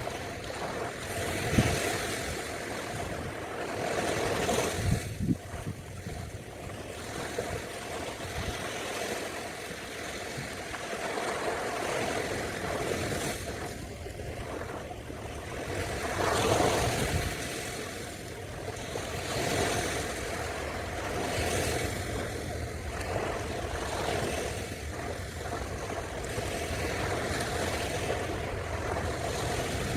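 Ocean surf washing onto a beach, swelling and fading every few seconds in a steady roar of water.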